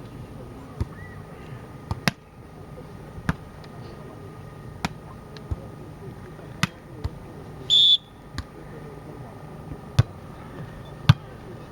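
Sharp knocks or clicks, about a dozen at irregular intervals, over a steady low background hum. Just before the eight-second mark there is one short, loud, high-pitched squeak.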